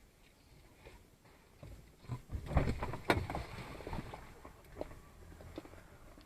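Car crash impact: a cluster of thuds about two and a half seconds in, then a sharp bang at about three seconds, followed by a few lighter knocks.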